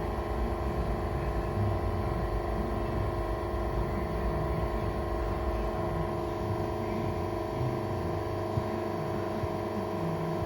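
Steady hum of the press brake's motor running idle: several held tones over a low rumble, with one faint tick near the end.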